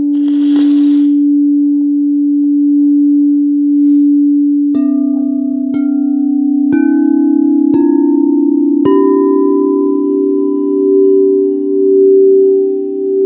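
Singing bowls ringing on a sustained low tone, then struck five times about a second apart, each strike a little higher in pitch, the tones overlapping and ringing on together. A brief high rattle sounds about half a second in.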